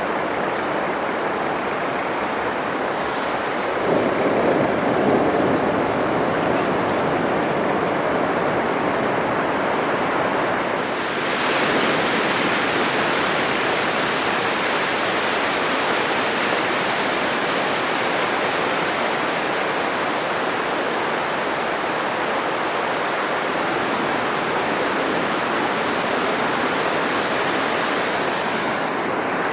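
Atlantic Ocean surf: a continuous wash of breaking waves, with a wave crashing louder about four seconds in and another surge about eleven seconds in.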